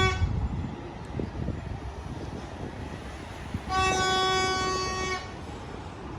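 Horn of a D13E diesel-electric locomotive sounding one steady blast of about a second and a half midway, over the low rumble of the train rolling into the station. The tail of an earlier blast cuts off right at the start.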